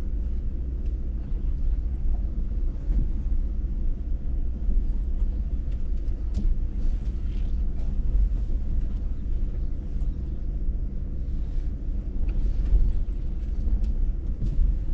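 Truck crawling slowly over a rough, rocky dirt track: a steady low engine and road rumble with a few faint knocks from the wheels and body over rocks.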